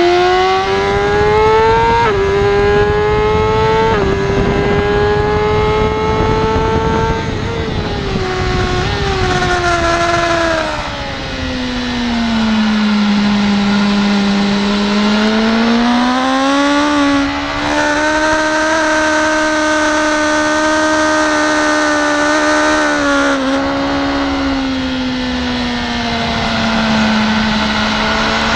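BMW S1000RR's inline-four engine heard onboard at racing speed, pulling up through two quick upshifts in the first few seconds. The revs then fall away under braking and downshifts, run low through a slow stretch, climb again with another upshift, and drop once more near the end before holding steady.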